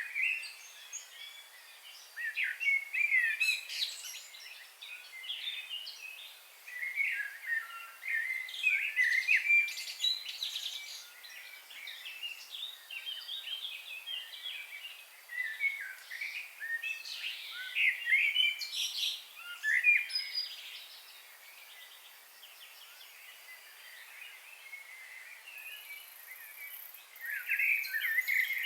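Several birds chirping and singing together in short, overlapping bursts of high chirps and trills, with a quieter lull about two-thirds of the way through.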